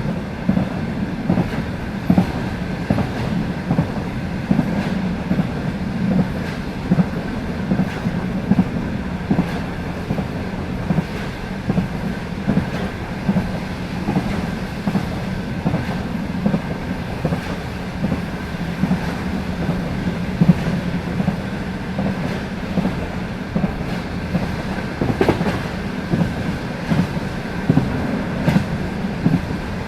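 Passenger train wheels clicking over the rail joints at speed, a repeated clickety-clack over the steady rumble of the moving coach.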